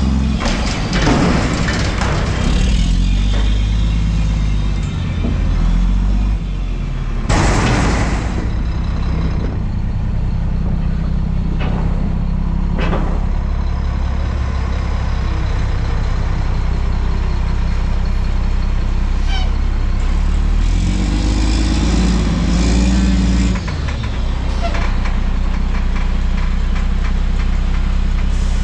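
Front-loader garbage truck engine running steadily and revving up and down twice, once near the start and again near the end, as it drives the hydraulics. About seven seconds in there is a short, loud burst of noise, with a few sharp clicks later.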